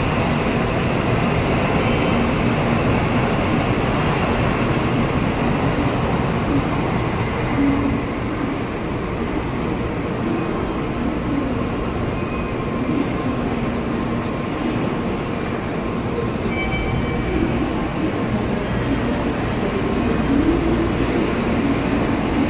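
Shinkansen bullet train moving out along the platform: a loud, steady rush of running noise with a low rumble. A thin high tone comes in about nine seconds in.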